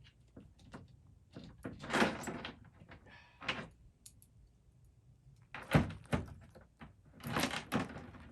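Chainsaw being reassembled by hand: irregular scrapes, clicks and knocks of the bar and side cover being worked onto the saw, with a sharp knock a little past halfway.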